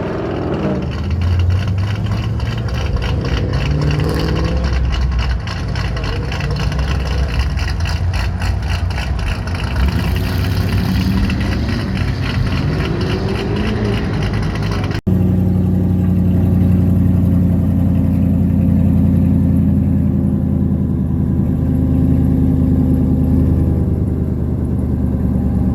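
Car engines revving, the pitch rising and falling repeatedly. About fifteen seconds in, a sudden cut to a car engine idling steadily with a low, even drone.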